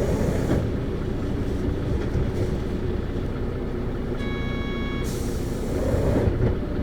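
Isuzu PKG-LV234Q2 city bus's diesel engine idling at a stop, heard from the cabin. An electronic chime sounds about four seconds in, followed by a short hiss of air from the pneumatics, and the engine note rises slightly near the end.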